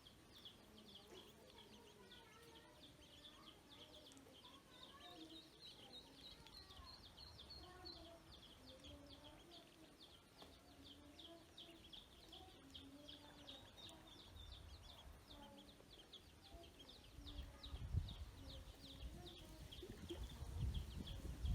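Ducklings peeping: a steady stream of short, high, falling peeps, several a second, with softer lower chirps among them. A low rumble comes in and grows louder over the last few seconds.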